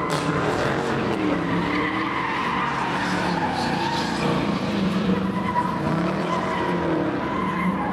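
A car doing a burnout, with tyres squealing and the engine held at high revs that waver up and down throughout.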